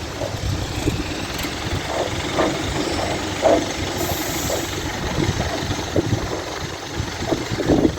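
Heavy engine idling with a steady low rumble.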